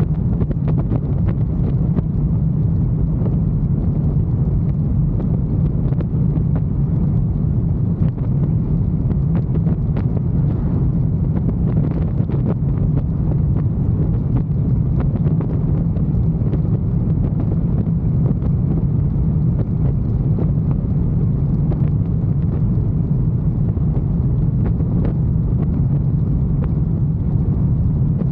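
Motorcycle cruising at a steady speed: a constant low engine drone mixed with wind rushing over the microphone.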